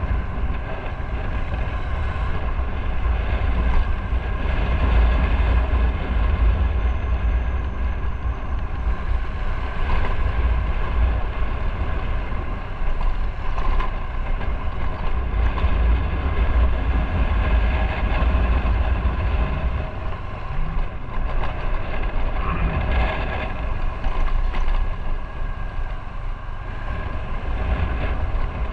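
Motorcycle running under way on the road, its engine a steady drone, with wind rumbling heavily on the microphone.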